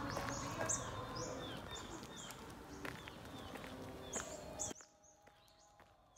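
Small birds chirping over faint outdoor background noise: many short, high chirps that drop in pitch, several a second. The sound cuts off to near silence about three-quarters of the way through.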